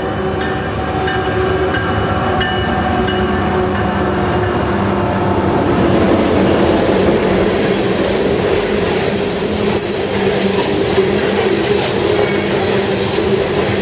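Diesel coal train passing. The locomotive's engine sound is heard for the first few seconds, then gives way to a steady rumble and clatter of the loaded hopper cars rolling by.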